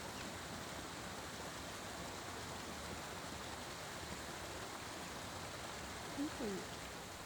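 Steady rushing noise with no clear events, and a brief gliding voice-like sound about six seconds in.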